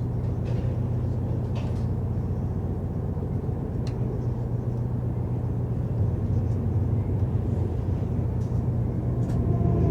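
Freight train passing a stopped passenger train at a siding, heard from inside the passenger car: a steady low rumble with a few faint clicks, growing louder near the end.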